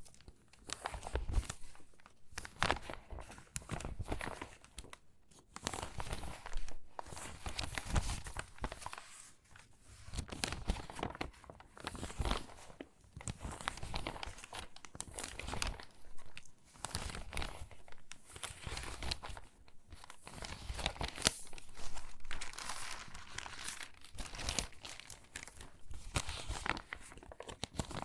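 Stiff, water-damaged magazine pages being handled and shuffled, crinkling and rustling in irregular bursts close to the microphone.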